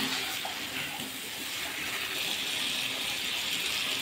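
Chicken pieces frying in oil and spice paste in a pan, a steady sizzling hiss, with a spatula stirring them through the masala.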